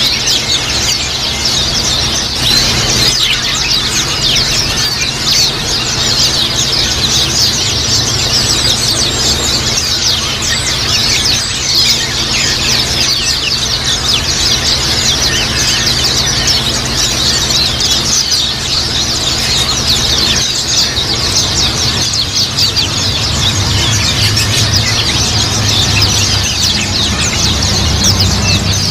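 A flock of white-eyes (pleci) chattering together in dense, overlapping high chirps and twitters, without a break, over a steady low hum.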